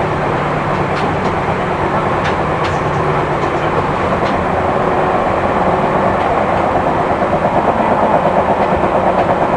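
Seibu New 2000 series electric train running at speed, heard from inside the passenger car: a steady rumble of wheels on rail with scattered light clicks. From about seven seconds in, a fast, regular pulsing beat comes through, typical of a flat spot on a wheel, which the recording is noted to have.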